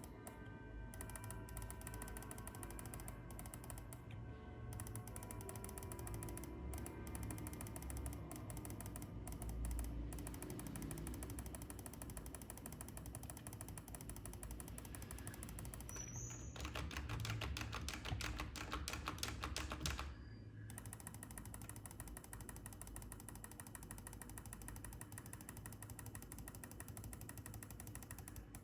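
Computer mouse and keyboard clicks at a desk, with a scroll wheel ratcheting rapidly for about three seconds past the middle.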